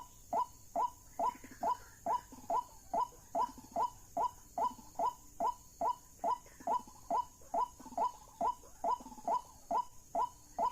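White-breasted waterhen call played through a lure speaker: a short note that dips in pitch, repeated steadily a little more than twice a second.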